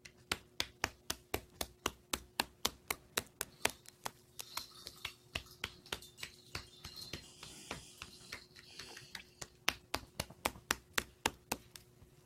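A bird pecking at the camera: an even run of sharp taps, about four a second, some louder than others, over a faint steady hum.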